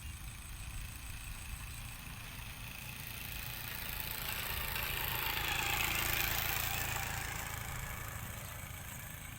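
A vehicle passing by: its noise swells to a peak about six seconds in, then fades away, over a steady low rumble.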